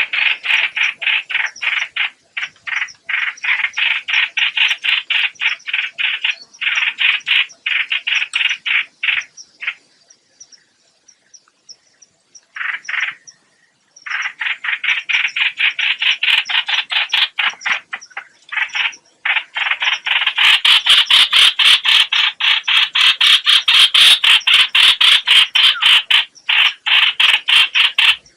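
Recorded lure call of the bird Vietnamese trappers call chim hoạch hoạch: a fast, rasping chatter of short notes, several a second, in long runs. It breaks off for a few seconds near the middle, then resumes louder in the last third.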